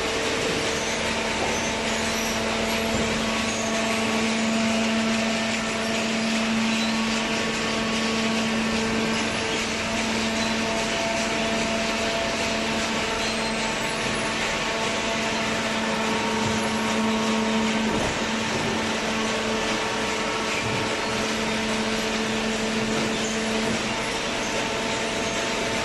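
Two-ram hydraulic baler running, a steady mechanical hum with a higher tone that drops in and out over a spread of machinery noise. The hum stops near the end, and there is a single brief knock partway through.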